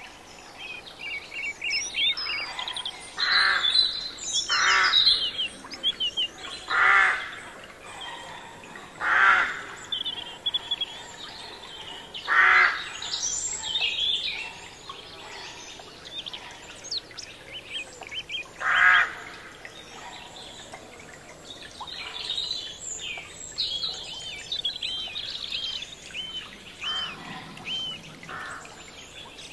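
Many birds chirping and singing together, with a louder, longer call standing out about eight times. Near the end, one bird repeats a short arched whistle about twice a second.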